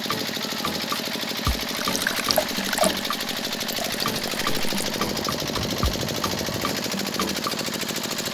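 A small motor running steadily with a fast, even rattle, and scattered light clicks and knocks over it.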